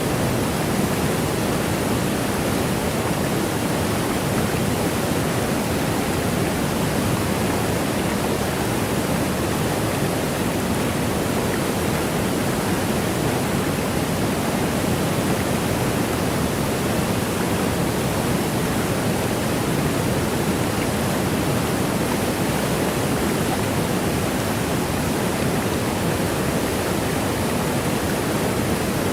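Waterfall: water rushing down in a steady, unbroken hiss with no change in level.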